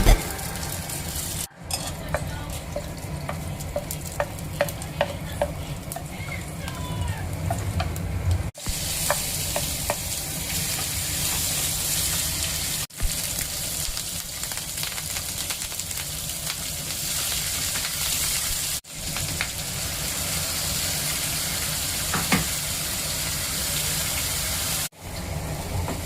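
Soya chaap frying and sizzling in a pan of oil, with a spoon stirring and clicking against the pan. The sizzle breaks off for an instant five times.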